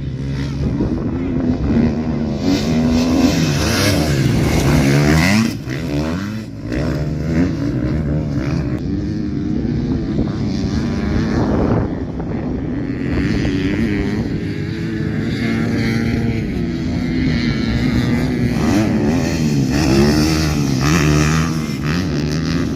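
Motocross dirt bike engines revving hard, the pitch climbing and dropping over and over as the throttle opens and closes and the gears change.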